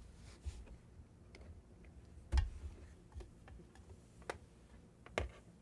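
A few faint, separate clicks and knocks of handling at a desk, about five in all, the loudest a little over two seconds in.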